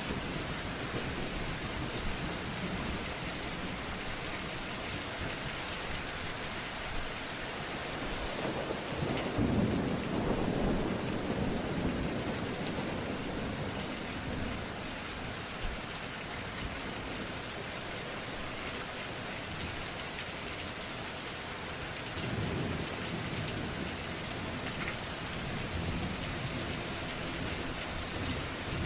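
Steady rain falling, with low rolling thunder twice: a longer rumble about a third of the way in and a shorter one about three-quarters through.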